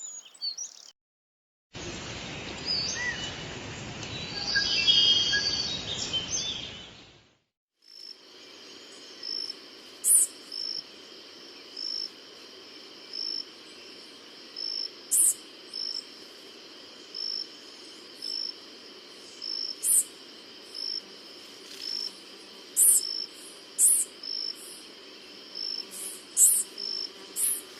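Tanager calls played from recordings: sharp, very high chip notes at irregular moments, over a steady run of softer evenly spaced chirps about one and a half a second. A shorter, noisier recording with a few high bird notes plays first, ending about seven seconds in.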